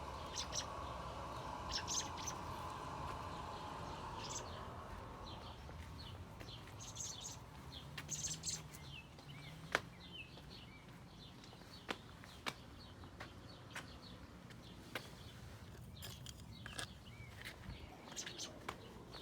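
Bird chirping outdoors: short, scattered high chirps throughout, with a few sharp clicks in between. A steady hum is heard at first and fades away about five seconds in.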